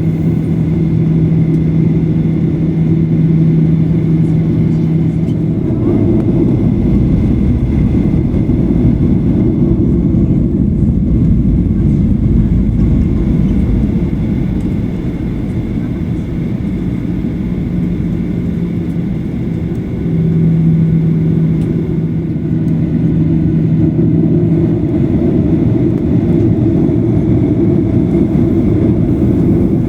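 Cabin noise of a Boeing 737-800 under way, heard from inside the cabin: a loud, steady low roar of its CFM56 engines and airflow. A steady hum sits over it at first, drops out after about five seconds, and returns for a few seconds past the middle.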